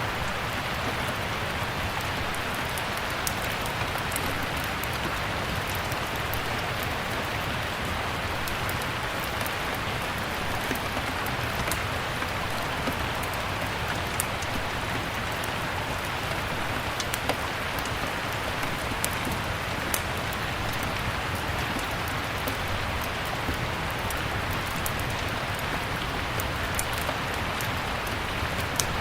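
Steady, even rain, with scattered sharp crackles and pops from a wood fire.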